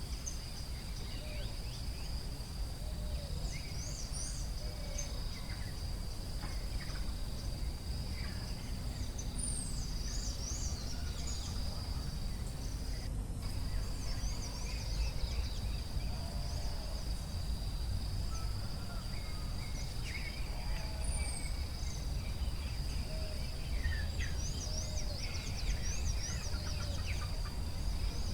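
Forest ambience: a steady high-pitched insect drone, with many birds chirping over it and a few lower, rounder calls. A steady low rumble underlies it.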